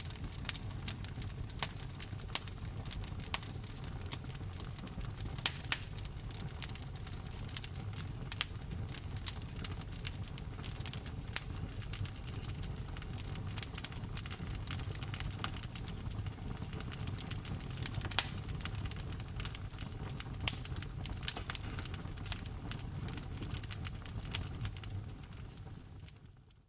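Wood fire crackling: frequent sharp pops and snaps of burning wood over a steady low rumble of the flames. It fades out near the end.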